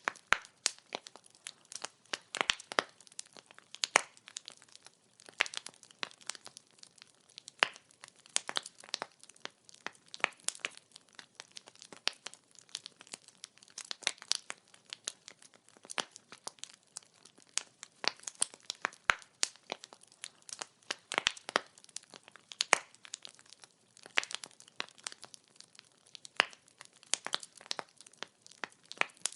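Wood fire crackling, with irregular sharp pops and snaps from the burning firewood.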